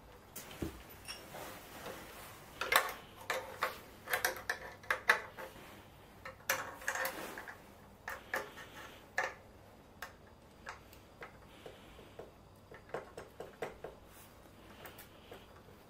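Irregular metallic clinks and taps, as of hand tools and small metal parts being handled. They come in clusters, busiest in the first half, with short ringing after some strikes.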